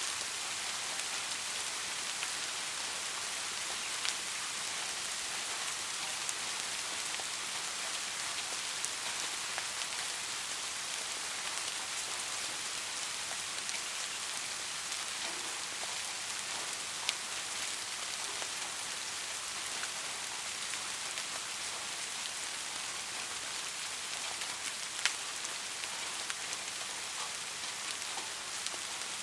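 Steady rain falling, an even hiss with scattered individual drops ticking, a few louder drip hits standing out now and then.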